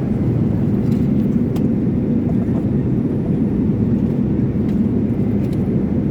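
Steady low rumble of a Boeing 787's cabin in flight: engine and airflow noise, even throughout, with a few faint light clicks.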